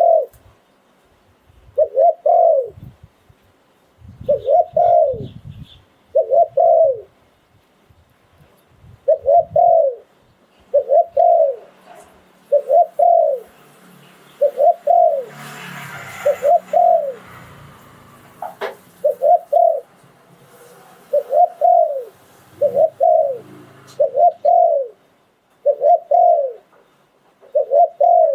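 Spotted dove cooing: a long series of short, rounded coos at about one a second, with a brief pause about a third of the way in. A rustling noise rises under the coos around the middle, followed by a single sharp click.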